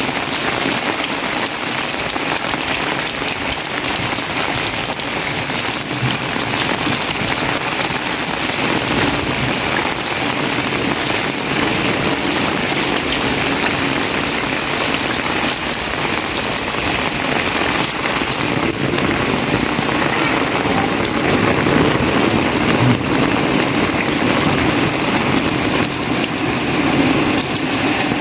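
Heavy tropical rain pouring down steadily: a dense, even hiss of the downpour striking the ground and surfaces.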